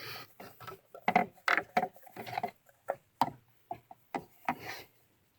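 Handling noise as oil-refill gear is worked by hand: about a dozen irregular clicks and short rubbing sounds, stopping shortly before the end.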